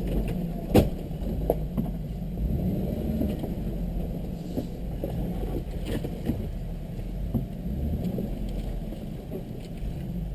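Vehicle running with a steady low rumble, with scattered knocks and bumps as it moves over rough ground, the loudest knock about a second in.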